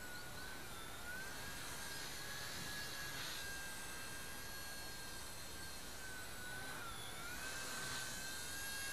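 Faint, steady high whine of a Blade mCPX micro collective-pitch RC helicopter's motor and rotor in flight. Its pitch dips and wavers briefly twice, about a second in and again near the end.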